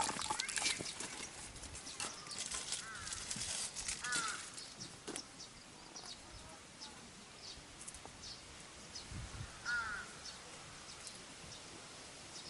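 A crow cawing: single short caws several seconds apart, about three in all. Rustling and clicking in the first few seconds.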